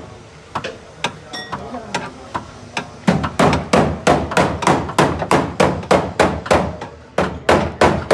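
Repeated hammer blows: a few lighter, irregular knocks, then steady hard strikes about three a second from about three seconds in.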